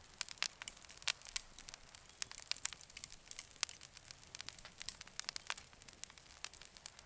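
Wood campfire crackling, with frequent sharp irregular pops and snaps.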